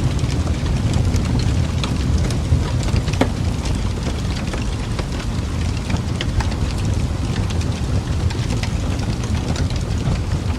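Log fire burning in a fireplace: a steady low roar of flame with frequent small crackles and pops scattered throughout.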